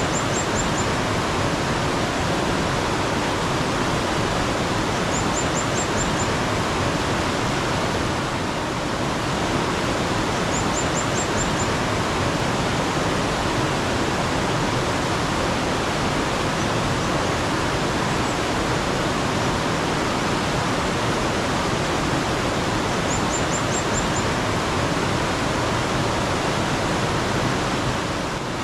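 Steady rush of running water from a mountain stream. A small bird gives a brief high chirping phrase of four or five quick notes four times over it.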